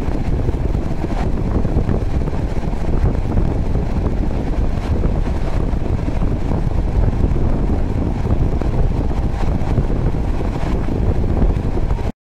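A moving train's running noise: a steady low rumble with wind buffeting the microphone. It cuts off abruptly near the end.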